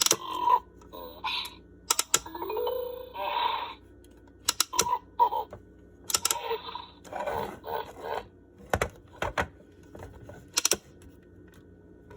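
Plastic clicks and knocks from a Fisher-Price Little People Big Zoo toy being handled, mixed with short electronic sounds from its small speaker, including a rising tone about two seconds in.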